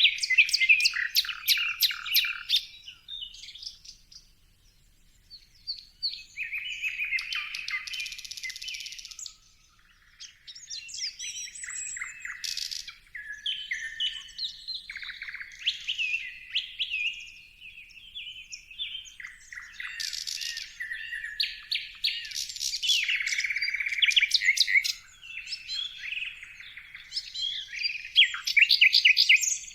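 Songbirds chirping and singing: a busy run of short chirps, rapid trills and whistled notes, with a couple of brief lulls.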